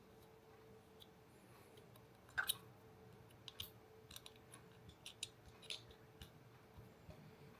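Scattered faint clicks and taps of small hard parts being handled, the sharpest pair about two and a half seconds in, over a faint steady hum.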